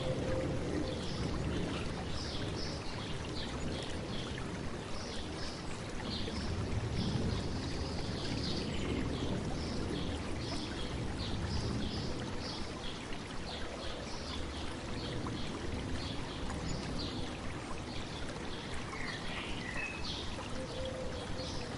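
A river babbling steadily over stones, with small birds chirping repeatedly over it and one gliding call near the end.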